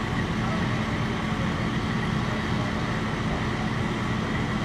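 Steady low engine rumble with a constant hum, from fire trucks' diesel engines running.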